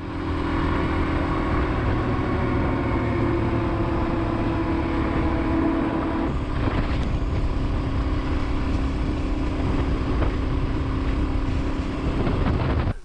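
Suzuki DR-Z400 single-cylinder dual-sport motorcycle engine running at a steady cruising speed, with wind rumbling on the microphone. The engine note steps down slightly about six seconds in.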